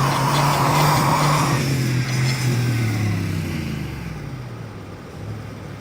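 Vehicle engine revving hard with a hiss of spinning tyres for the first second or so, then the engine pitch slowly falls as it revs down: the vehicle is stuck, wheels spinning on ice without getting out.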